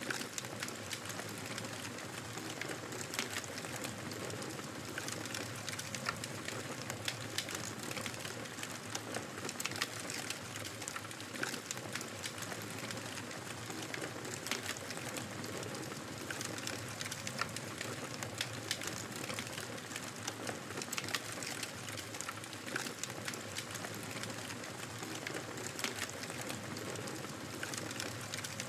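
Wood fire in a fireplace crackling steadily, with frequent small sharp pops over a soft hiss.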